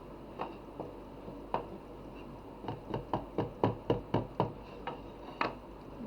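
Sharp knocks on wood, like light hammer taps. There are a few single taps, then a quick run of about eight at roughly four a second past the middle, then two more near the end.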